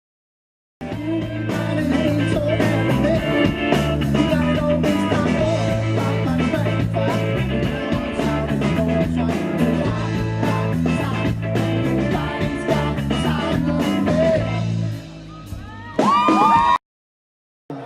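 Live rock band playing, drums, bass and guitar with singing, starting about a second in after a silent gap. Near the end the music thins out, there is a short loud burst with a voice sliding in pitch, then the sound cuts out abruptly.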